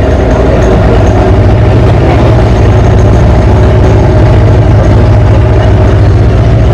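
The tour boat's motor running steadily at cruising speed, loud and even.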